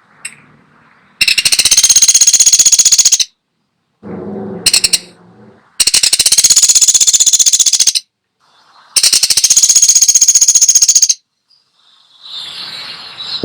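Woodpecker giving long, rapid rattling calls: three trills of fast, evenly repeated high notes, each about two seconds long. A lower, briefer call comes between the first two.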